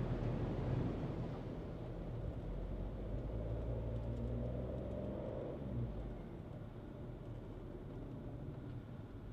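Skoda Kushaq engine and road noise while driving. The engine hum climbs slightly, then drops away about six seconds in and the sound gets quieter.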